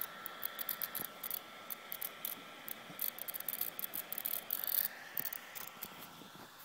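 Irregular crackling and clicking static from a 2010 13-inch MacBook Pro running under heavy CPU load, over the steady sound of its cooling fan and a faint steady high tone. The owner rules out the hard drive, speakers and fan and suspects the power supply or logic board.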